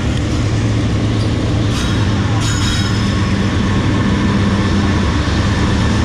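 A train passing close by on the railroad track beside the path: a loud, steady rumble of wheels on rail, with a faint high squeal about two and a half seconds in.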